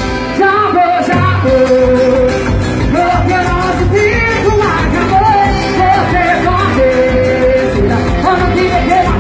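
Live band music with a steady beat and a strong bass, with a voice singing held, wavering notes over it.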